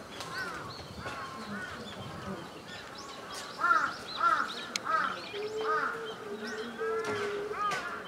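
Several birds calling over and over, short arched calls that overlap one another, loudest in the middle. A steady low tone runs for a couple of seconds past the middle.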